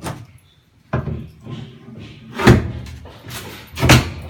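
A series of four heavy bangs, like something being slammed or struck, about a second or so apart; the loudest come about two and a half and four seconds in.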